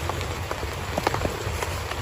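Heavy rain falling steadily, with many separate drops striking sharply and irregularly on a near surface, such as a tent.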